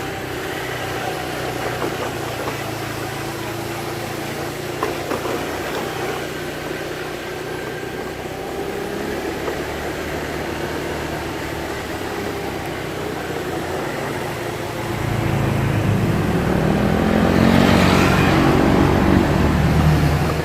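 A vehicle's engine running steadily, growing clearly louder about three-quarters of the way through and loudest shortly before the end.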